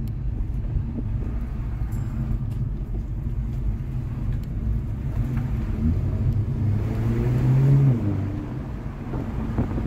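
Renault Mégane 4 RS's 1.8-litre turbocharged four-cylinder heard from inside the cabin, running under way with steady road rumble. About six and a half seconds in the engine note climbs and gets louder, then drops off sharply about a second later.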